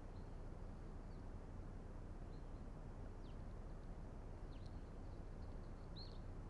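Quiet outdoor ambience: a steady low rumble with a few short, high, downward-sliding bird chirps scattered through it.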